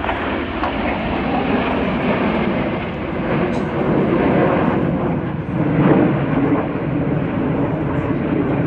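Jet aircraft, the Red Arrows' BAE Hawk T1s, flying overhead in formation: a steady jet noise that swells slightly about six seconds in.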